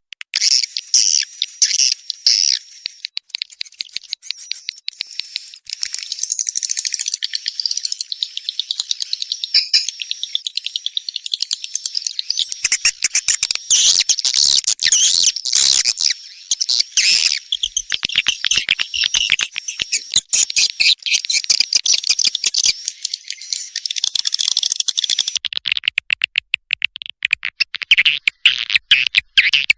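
Recorded swiftlet calls, a dense stream of rapid high chirps and twitters. This is the kind of 'calling sound' played from swiftlet houses to lure the birds in to nest.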